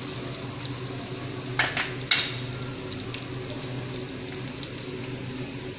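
Sliced onion and garlic frying gently in oil in a pan for a tadka: a steady soft sizzle with scattered small pops. Two short knocks come about a second and a half to two seconds in.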